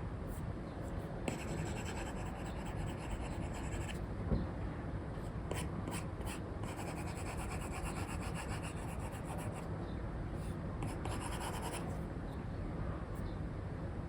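Apple Pencil 2 with an Elecom nib scratching across a paper-texture screen protector on an iPad in runs of sketching strokes, with light nib taps in between. The strokes sit over a steady low background noise, and there is one soft knock about four seconds in.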